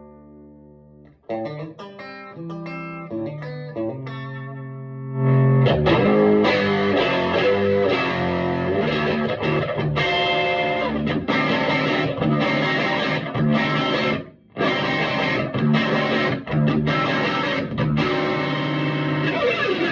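Electric guitar played through a Vintage Sound Amp. A chord fades out, and picked single notes start about a second in. From about five seconds the playing is fuller and louder, with a brief break near the middle, and it ends on a slide down in pitch.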